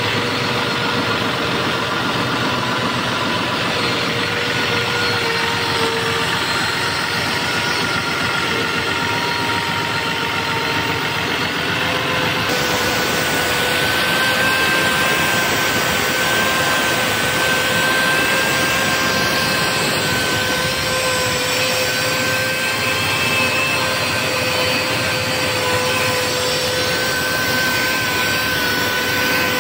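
Portable in-situ crankpin grinding machine running steadily on a Daihatsu 6DC-17 crankpin, a loud machine noise with a steady high whine that wavers slightly in pitch. The sound changes abruptly about twelve seconds in.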